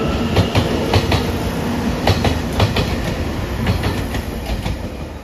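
JR Shikoku 8000 series electric limited-express train departing, its wheels clacking over the rail joints in a quick, uneven series of clacks. The sound slowly fades near the end as the train draws away.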